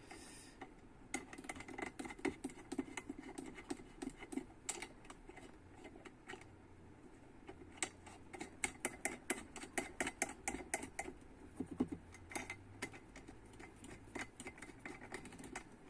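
Light metal clicks and taps from trumpet valve parts being screwed back in by hand, coming in irregular clusters, thickest about halfway through.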